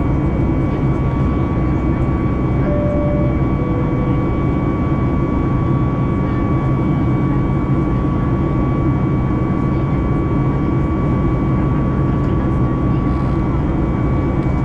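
Steady cabin noise inside a Ryanair Boeing 737 MAX 8-200 jet airliner: its CFM LEAP-1B engines run with a constant whine over a deep rumble. A two-note falling chime sounds about three seconds in.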